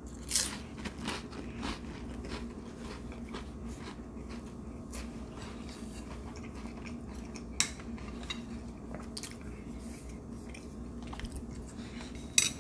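Close-up crunching and chewing of a saltine cracker topped with sardines: a loud crunch about half a second in, then steady chewing with small crackles. There are two sharp clicks, one about halfway through and one near the end.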